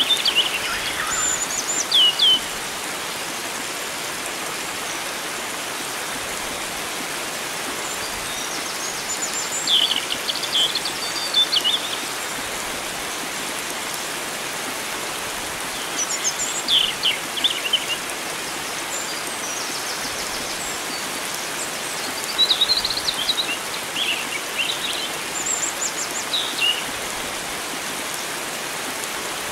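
Wild birds singing in short phrases of high chirps and trills every few seconds, over the steady rush of flowing water.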